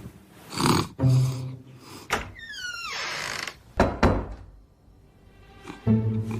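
A few dull thuds, with a falling whistle-like glide between them about two and a half seconds in.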